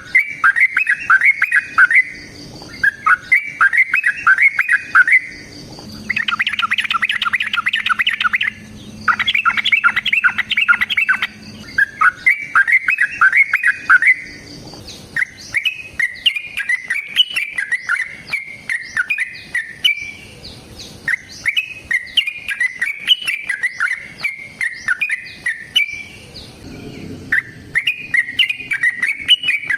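Yellow-vented bulbul (trucukan) singing in fast bursts of rapid, repeated chattering notes, each burst about two seconds long with short breaks, running on into a looser, continuous chatter about halfway through.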